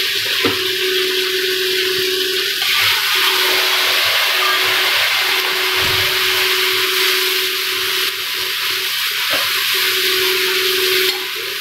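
Spices frying in hot mustard oil in a metal kadai, a steady loud sizzling hiss, with a ladle stirring and knocking against the pan a couple of times.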